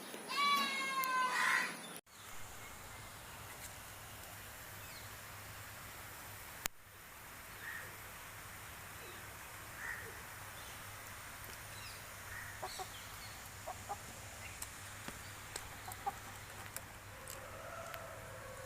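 Aseel rooster ending a crow in the first two seconds. It cuts off suddenly to a quiet stretch of faint short clucks and scattered small clicks, with one sharp click about seven seconds in and a faint call near the end.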